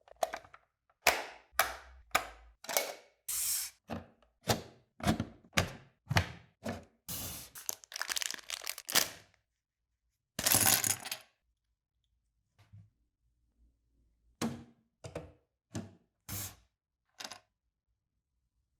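Hard plastic toy parts snapping and clicking as they are handled and fitted together: a run of sharp cracks, one or two a second, a longer rustling stretch about halfway through, then a few more clicks.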